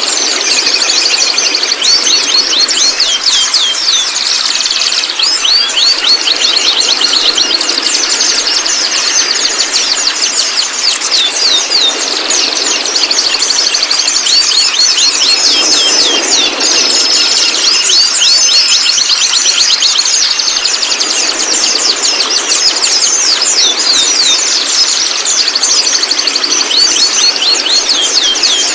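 White-rumped shama singing without pause: rapid, high chattering notes sliding in pitch, with a few short held whistles about halfway through.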